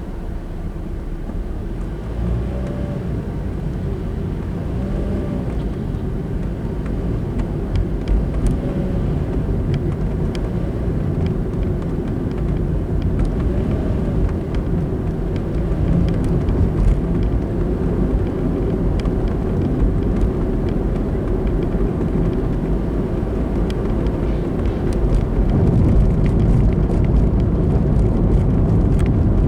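Car driving along a road: steady engine and tyre road noise heard from inside the car, slowly growing louder.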